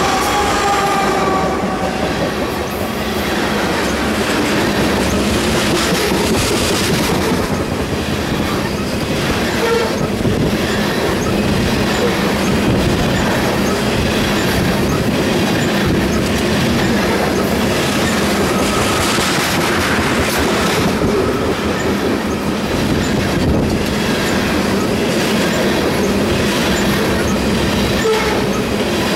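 Freight train tank cars rolling past close by: a steady, loud rumble of steel wheels on rail with clicking over the rail joints. A pitched tone fades out about a second in.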